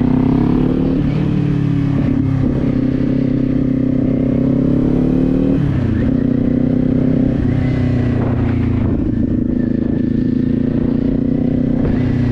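Kawasaki Z400 parallel-twin engine under way: the revs climb in the first second, then hold steady. The engine note drops about six seconds in, then runs steadily again.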